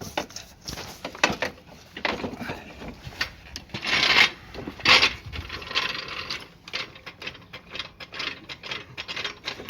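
Mechanical work on a motorcycle engine with hand tools: a run of irregular metal clicks, knocks and scrapes, with louder rasping bursts about four and five seconds in.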